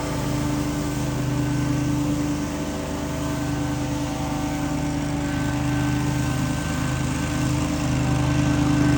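Small engine of outdoor power equipment running steadily at a constant speed, with a steady tone over its running sound.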